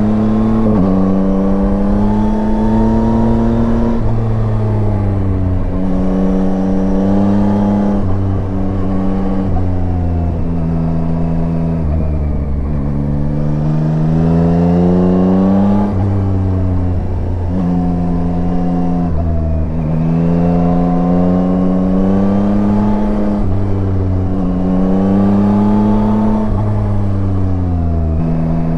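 Yamaha Tracer 9's three-cylinder engine running under way. Its pitch climbs and falls repeatedly as the throttle is opened and closed, with a few abrupt drops in pitch.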